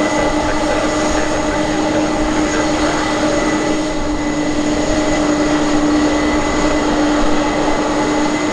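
Aircraft engine running steadily at the airport: a loud, even drone with a few held tones and no change in pitch.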